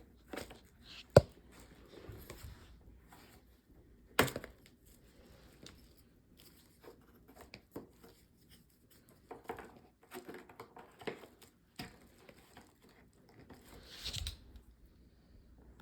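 Rustling and crinkling handling noises broken by a few sharp clicks or knocks, the loudest about a second in and another about four seconds in; no motor is running.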